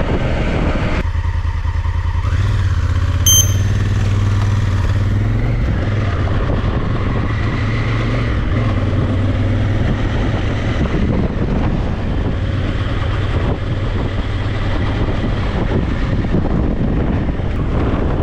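Motorcycle engine running steadily while riding, with wind noise over the microphone. A short high electronic beep sounds once about three seconds in.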